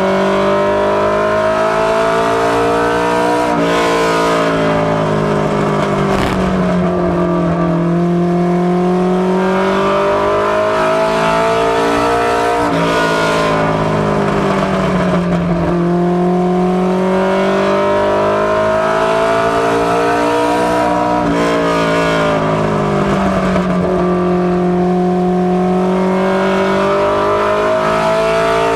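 Ministock Mustang race car's engine running hard on an oval, its pitch climbing along each straight and dropping sharply as it lifts for the corners, about every nine seconds.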